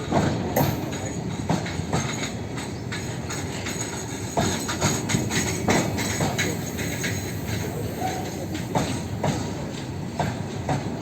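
Train running along the track: a steady rumble with irregular sharp clacks of wheels passing over rail joints.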